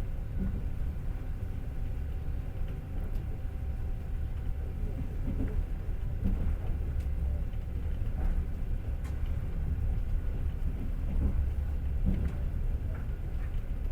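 Passenger train running, heard from inside the carriage: a steady low rumble of wheels on rails, with a few faint knocks.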